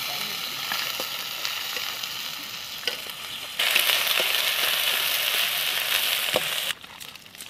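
Sliced onions and spice paste sizzling in hot oil in an iron kadai, stirred with a metal spatula that scrapes and clicks against the pan now and then. The sizzle gets much louder about halfway through and drops off sharply near the end.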